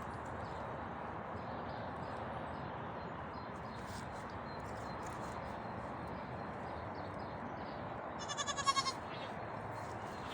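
A goat kid bleating once about eight seconds in, a short, high, quavering bleat, over steady background noise.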